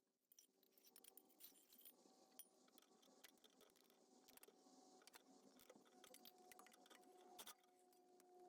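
Very faint, irregular clicks and scrapes of hand tools working on exhaust bolts under a truck, over a faint steady hum.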